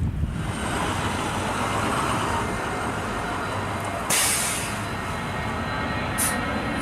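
Aircraft engine noise: a steady rushing roar with a faint whine in it, and a short high hiss about four seconds in.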